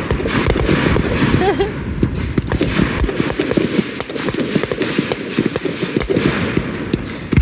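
Fireworks display going off: a dense run of bangs and low booms mixed with crackling, many in quick irregular succession.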